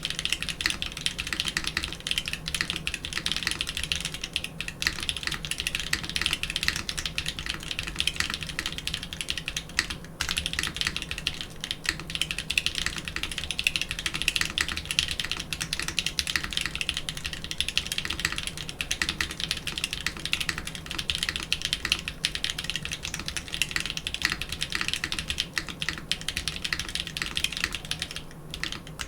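Continuous fast typing on a mechanical keyboard fitted with a doubleshot keycap set, a dense run of key clacks with short pauses about ten seconds in and near the end, recorded through an Audio-Technica AT897 shotgun microphone.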